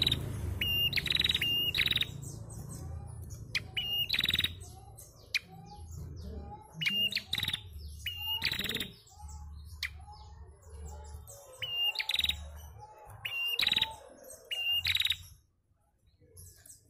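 Female prenjak calling: repeated short, sharp chirps, each a thin high note followed by a brighter burst, given in quick groups of two or three with pauses between. The calls stop shortly before the end.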